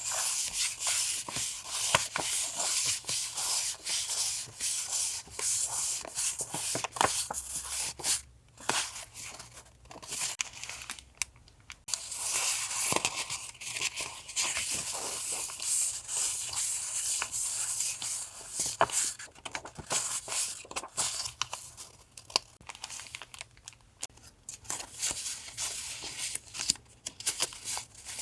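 Paper and plastic sticker packaging being handled: continuous crinkling and rustling with sharp little ticks and tearing sounds, broken by a couple of brief pauses.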